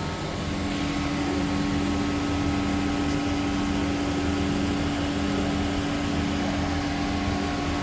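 Steady machine hum with a strong low tone and fainter higher tones over a noisy rush, getting slightly louder in the first second and then holding even.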